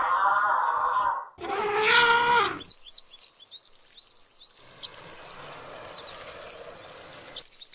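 A loud drawn-out animal call, then a second call that falls in pitch at its end, followed by birds chirping in short high notes over a faint hiss.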